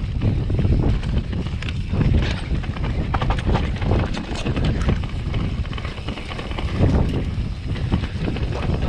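Mountain bike (2020 Transition Patrol) rolling fast over a rough dirt trail: tyre rumble with a rapid, irregular clatter of knocks and rattles from the bike, and wind buffeting the microphone.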